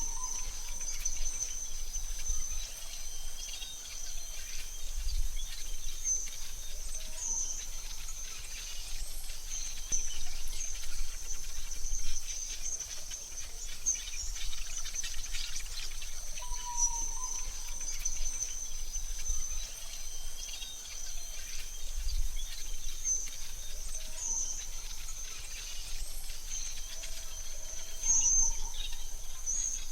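Forest ambience: a steady high insect drone with scattered bird chirps and a couple of short, lower bird calls, over a soft background hiss.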